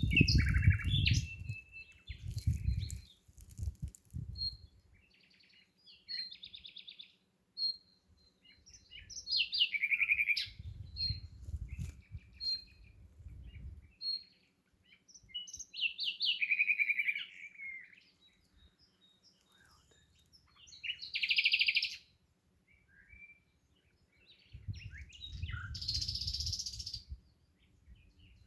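Wild songbirds chirping and singing in short, separate phrases and trills, with gaps between them. A low rumble comes and goes under the song, near the start, in the middle and again near the end.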